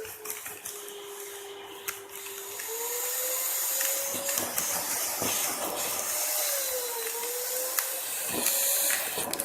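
Vacuum cleaner running over a carpet: a steady motor whine that drops and rises in pitch several times over a rushing hiss, with small clicks and rubbing as the head moves across the pile.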